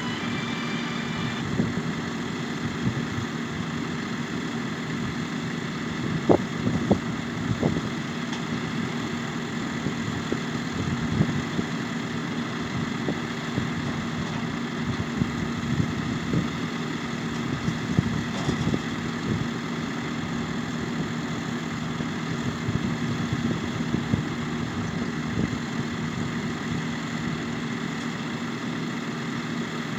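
Tractor engine running steadily under harvest work, with irregular knocks and clatter over it, the loudest about six to eight seconds in.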